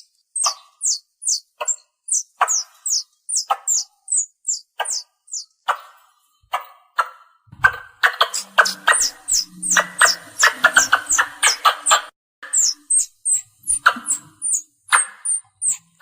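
Squirrel calling: a run of short, high chirps, each falling in pitch, about two to three a second, many with a lower click beneath. About halfway through they break into a fast, dense chatter for a few seconds, then the separate chirps resume. It is the kind of call used to lure other squirrels in.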